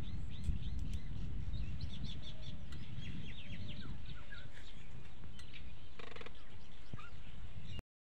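Small birds chirping and twittering in many short, quick high calls over a steady low rumble. The sound cuts off abruptly just before the end.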